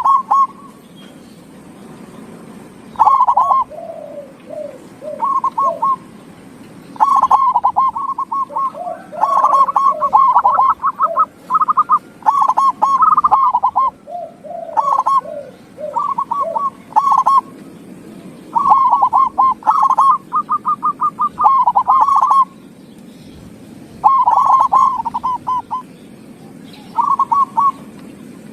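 Zebra doves (perkutut) cooing: short phrases of rapid, rolling coo notes, repeated every second or two and sometimes overlapping, with runs of lower falling notes among them and brief pauses between bursts.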